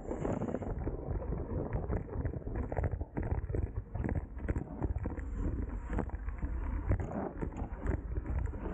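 Wind buffeting the microphone of a camera on a racing bicycle at speed, with a constant low rumble and many small knocks and rattles from the road.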